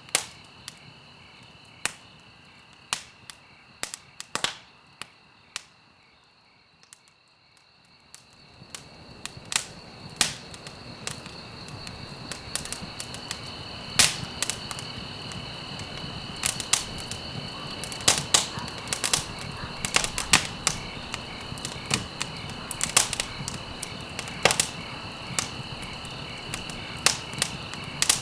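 Wood fire crackling in a fireplace: irregular sharp pops and snaps over a soft hiss of burning. The hiss dies down for a few seconds about a third of the way in, then grows back and holds steady while the pops come more often.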